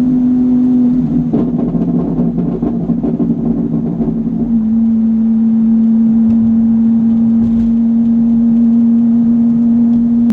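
Car engine running with a steady hum while driving. For a few seconds early on a rougher, noisier sound joins it; then the pitch drops slightly and holds steady.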